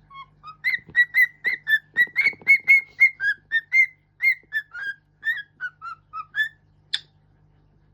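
A pet bird whistling a tune, a quick run of clear notes about three a second stepping up and down in pitch, then one short sharp note near the end.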